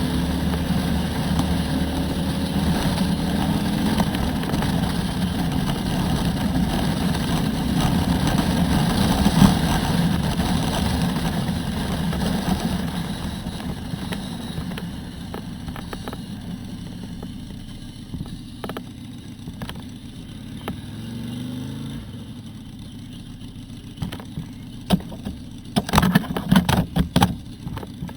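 Harley-Davidson Road Glide's V-twin engine running under way, mixed with wind rush, easing off and quieter about halfway through. A cluster of sharp knocks comes near the end.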